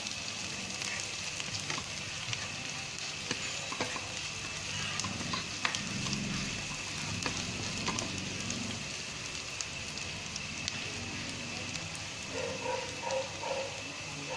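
Sliced onion, ginger and garlic sizzling steadily in hot cooking oil in a nonstick frying pan, with scattered small pops of spattering oil. The spoon stirs and scrapes the pan now and then as the aromatics fry toward golden brown.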